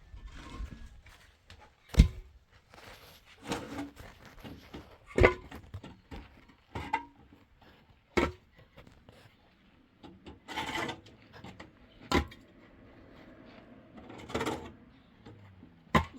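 Sharp knocks about every three to four seconds, with scraping and rubbing between them: wood being worked by hand.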